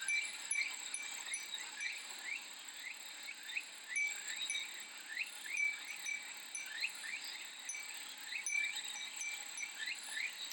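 Japanese wind chime (fūrin) tinkling irregularly over a steady, high cicada drone, with many short rising chirps mixed in.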